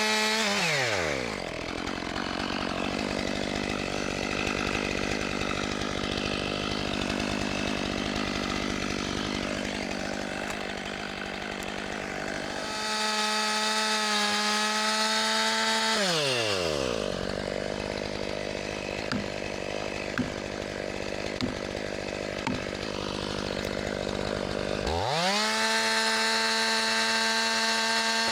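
Chainsaw at high revs, its pitch falling sharply as the chain bites into the log, then cutting for several seconds before revving freely again; this happens twice. A few light clicks come during the second cut.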